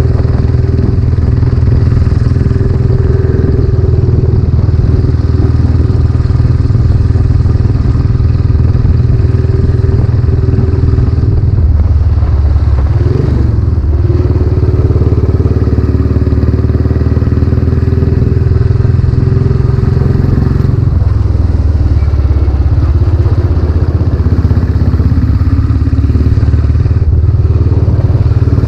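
Royal Enfield Classic 500's single-cylinder engine running under way through a newly fitted silencer, a steady, loud, low exhaust note. The engine note changes around the middle and again about two-thirds of the way through.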